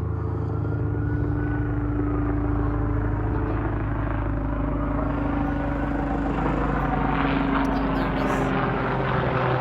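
Helicopter overhead: a steady drone of engine and rotor with a low, fast pulsing, growing a little louder and noisier near the end.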